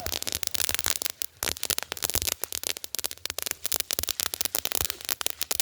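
Small ground fireworks burning with a dense, irregular crackle of many sharp little pops.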